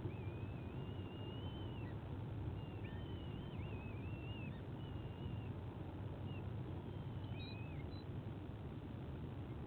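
White-bellied sea eagle chicks giving thin, wavering high whistling peeps, one long call at the start and then a string of shorter ones, typical of eaglets begging at a feed, over a steady low rumble of background noise.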